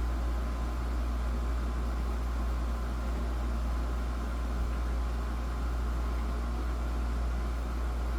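Steady low hum under an even hiss, unchanging throughout with no distinct clicks or knocks.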